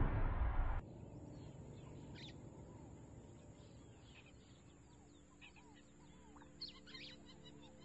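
A loud rushing noise cuts off abruptly about a second in, leaving faint birds chirping in short, scattered calls.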